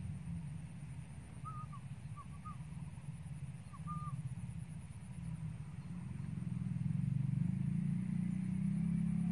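A few short, high chirps of a small bird, between about one and four seconds in, over a low, steady rumble that grows louder near the end.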